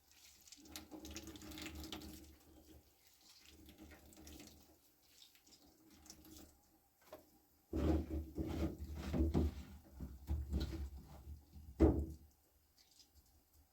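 Water running and splashing in irregular spells, as at a tap or sink. It is faint at first, louder and busier in the second half, with a short, sharper burst near the end.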